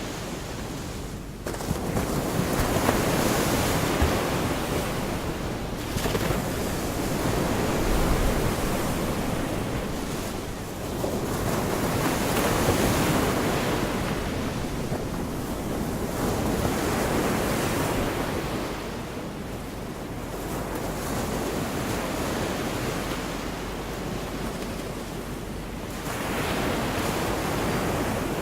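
Sea waves breaking on the shore, the wash swelling and fading every four to five seconds, with wind rumbling on the microphone.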